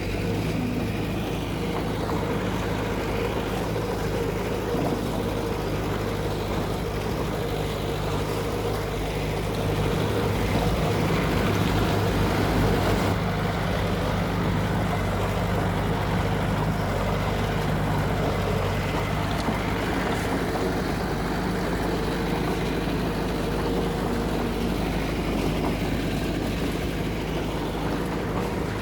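Heavy diesel construction machinery running steadily, its engine note holding level and growing slightly louder about a third of the way through.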